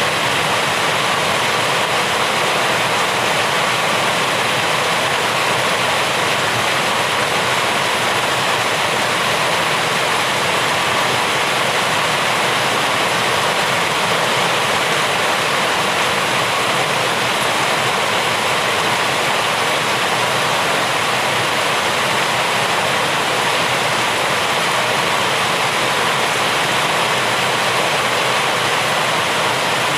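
Heavy rain falling steadily, a continuous even hiss with no separate drops or thunder standing out.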